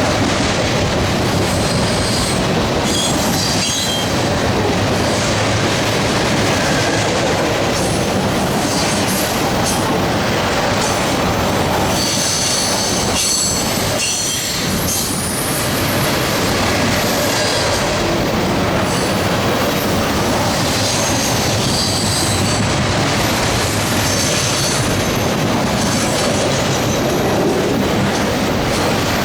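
Freight cars of a loaded trash train rolling past: a steady rumble and clatter of wheels on rail, with high wheel squeal coming and going several times.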